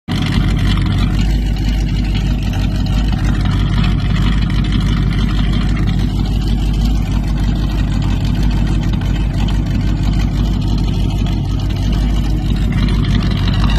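A rebuilt truck engine with an unknown camshaft, idling steadily; its cam is what is being identified by the sound of the idle.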